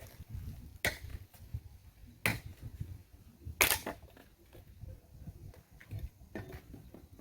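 Wood being chopped: four sharp strikes at a slow, fairly even pace, the third the loudest.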